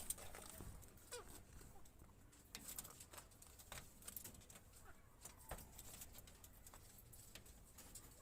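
Near silence with faint, scattered clicks and taps, and a brief faint call about a second in.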